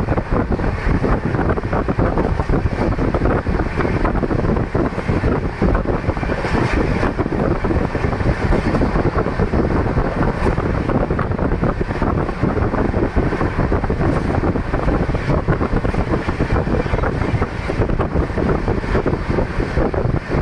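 Passenger train running at high speed, about 130 km/h, heard from aboard: a loud, steady rumble of wheels on the rails with wind buffeting the microphone.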